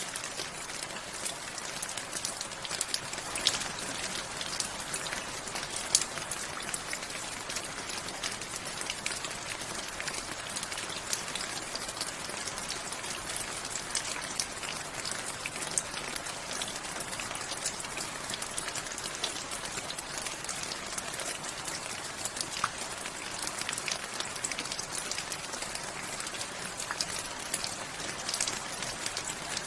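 Steady rainfall: an even hiss of rain with many sharp individual drops pattering and ticking on a surface, a few louder drops standing out.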